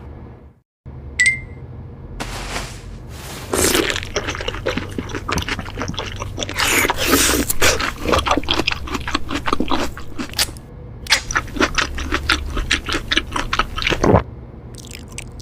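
Close-miked eating: a long run of crisp crunches, cracks and scrapes as crunchy food is bitten and chewed. A brief high tone sounds about a second in.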